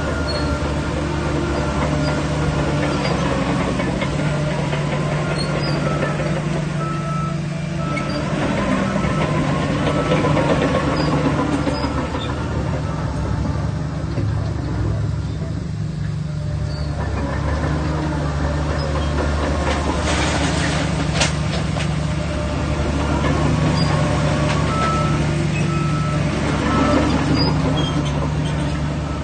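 SHANTUI DH17 bulldozer's diesel engine running steadily under load, its pitch rising and falling a little as it works. A repeating high beep comes and goes at times.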